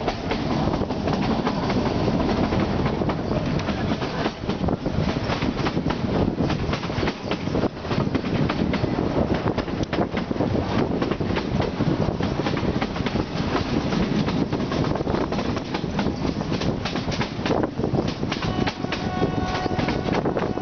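Narrow gauge passenger train running, heard from aboard a coach: a steady rumble with the clickety-clack of the wheels over the rail joints. About two seconds before the end a steady tone with several overtones joins in.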